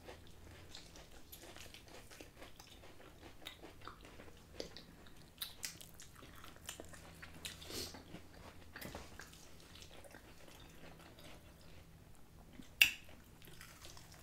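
Close-miked eating of breaded fried chicken wings: biting and chewing with many small irregular clicks and crunches, and one sharp, much louder click near the end.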